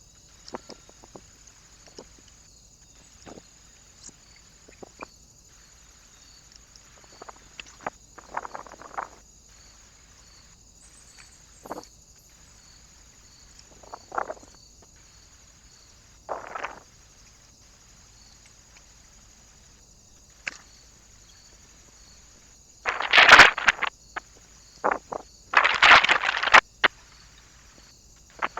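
Birds at a feeder perch: scattered sharp taps and short rustling flurries, with three much louder flurries near the end. A faint steady high whine from the trail camera runs underneath.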